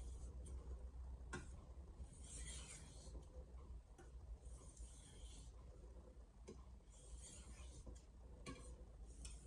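Santoku chef knife blade pushed edge-leading across a Shapton Glass whetstone: faint scraping strokes every couple of seconds, with a few light clicks.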